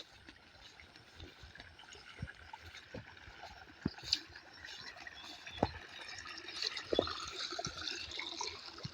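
Water trickling and gurgling, with scattered small clicks and knocks; a higher hiss grows louder in the second half.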